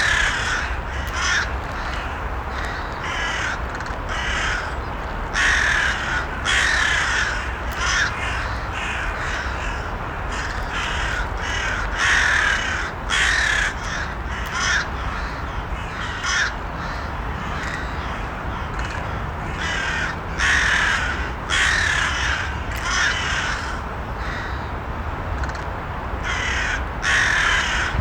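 Crows cawing: harsh calls that come every second or two, some in quick runs, over a steady low rumble.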